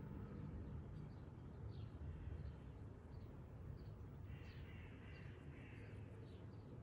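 Birds calling faintly over a steady low rumble: short high chirps repeat about every half second, and two harsher, raspier calls come about two-thirds of the way through. The rumble eases off during the first second.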